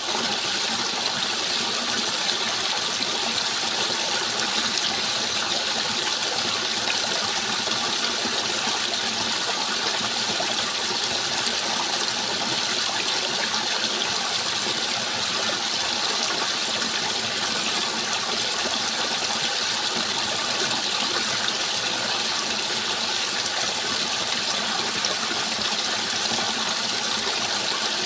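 Flowing water rushing steadily, an even hiss that never changes.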